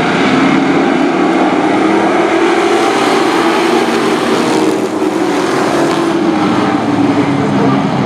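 Several race trucks' engines running hard together, their pitch rising and falling as they go around the track.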